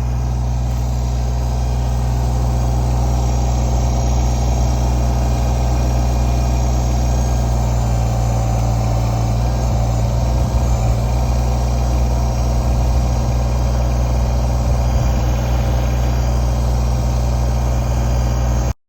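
Tractor engine running steadily, with a couple of brief knocks near the middle, then cutting off abruptly at the end.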